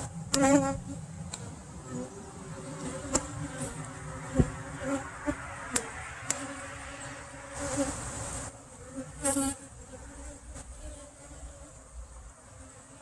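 Honey bees buzzing around an open hive, with a bee flying close past the microphone about half a second in and again near nine seconds. A few sharp clicks come in between.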